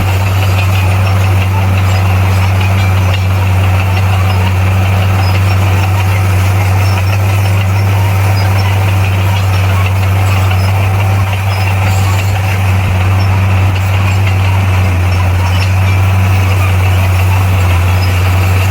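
Bulldozer's diesel engine running steadily at a constant low pitch, with no change in revs.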